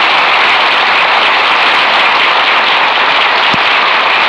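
Studio audience applauding steadily, welcoming the introduced star, heard through an old radio broadcast recording with a dull, cut-off top end.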